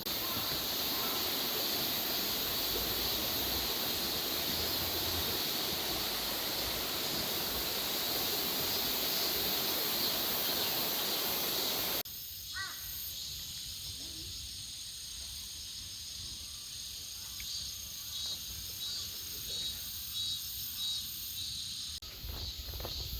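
Loud, dense cicada chorus that cuts off abruptly about halfway through. A quieter stretch of high, pulsing insect trills follows, typical of crickets, with a short bird call just after the cut.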